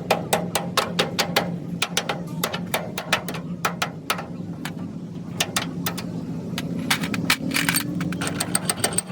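Rapid, irregular hammer taps, several a second and thinning out after about four seconds, over a steady low machine hum.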